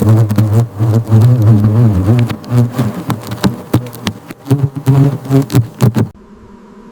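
Honeybees buzzing loudly and close up, a dense wavering hum with frequent sharp clicks. It cuts off suddenly about six seconds in, leaving only a faint steady hum.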